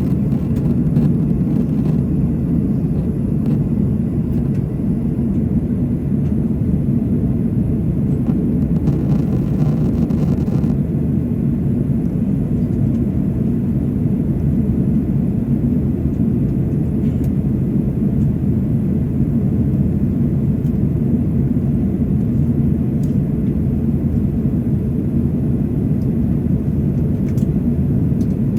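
Airliner cabin noise during descent: a steady low rumble of engines and rushing air.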